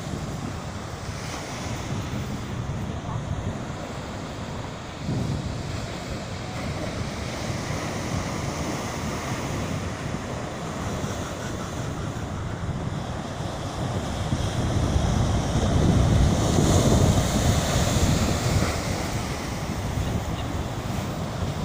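Ocean surf breaking on a beach, with wind buffeting the microphone. The waves swell louder about two-thirds of the way through, then ease back.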